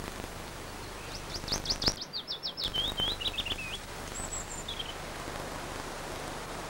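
A songbird singing: a quick run of short notes starting about a second in that falls in pitch over a couple of seconds, followed by a few brief higher chirps, over a steady background hiss.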